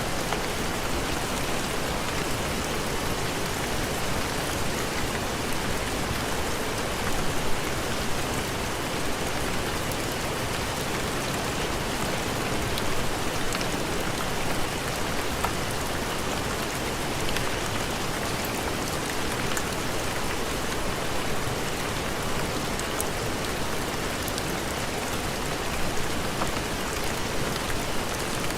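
Steady heavy rain, an even hiss with a few scattered faint ticks.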